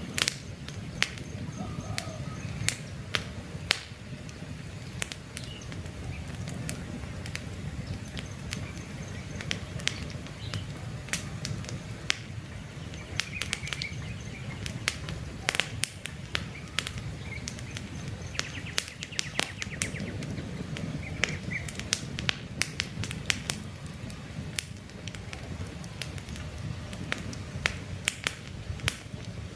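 Wood campfire crackling, with irregular sharp pops and snaps over a low steady rumble of burning. Small birds chirp briefly now and then in the background.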